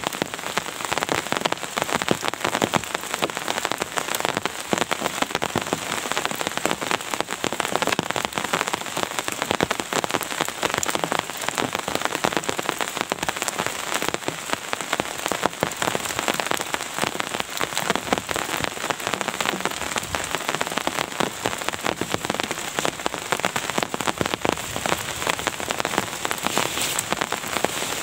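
Steady heavy rain: a dense, even spray of drops striking a surface, with no let-up.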